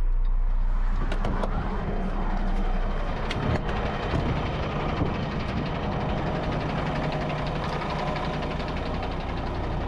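Concrete mixer truck's diesel engine idling steadily at a standstill, with a few light clicks and knocks in the first half.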